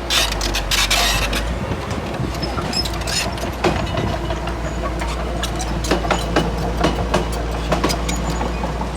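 Komatsu D31P bulldozer's diesel engine running steadily under load, with a burst of hiss in the first second or so and repeated sharp metallic clanks and knocks from the machine working, more of them in the second half.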